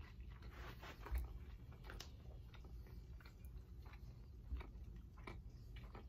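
A person chewing a mouthful of Wagyu beef burger close to the microphone, with faint wet ticks, over a low steady hum. Two soft bumps come about a second in and again near the middle.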